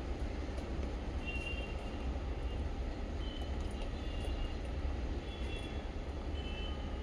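Steady low rumble of background noise, with a few faint, short high chirps from small pet parrots every second or two.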